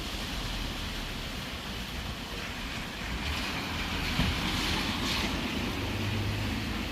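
Steady rain falling, with a louder rushing hiss that swells up about three seconds in and fades away a couple of seconds later, and a low hum near the end.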